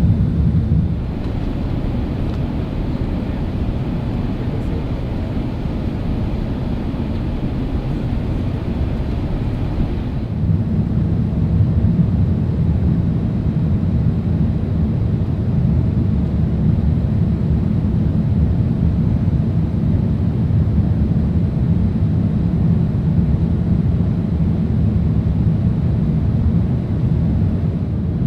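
Steady low rumble of an Airbus A380 passenger cabin in flight, engine and airflow noise without speech. The low rumble grows louder about ten seconds in.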